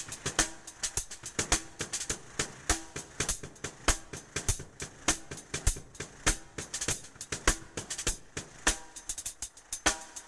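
Drum kit played in an improvised solo: a dense run of sharp, uneven strokes in a shifting rhythm.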